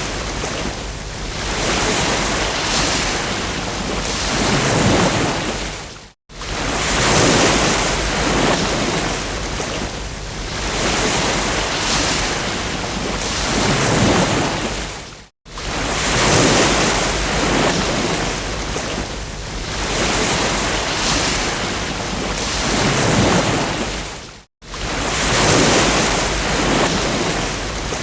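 Ocean surf: waves breaking and washing up a beach as a steady rushing sound that swells and falls every few seconds. The sound cuts out for a split second three times, about every nine seconds.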